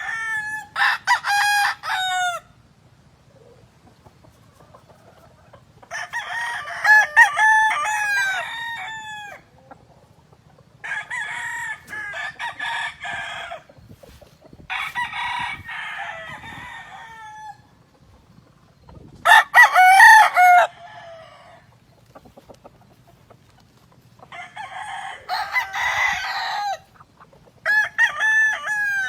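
Roosters crowing one after another, about seven crows a few seconds apart, some of them overlapping. The loudest comes about twenty seconds in.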